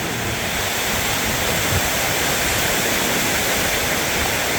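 Heavy storm rain pouring down: a loud, steady, even roar of rain.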